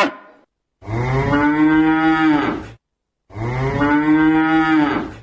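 Cow mooing: two long moos of about two seconds each, steady in pitch. The tail of an earlier moo fades out at the very start.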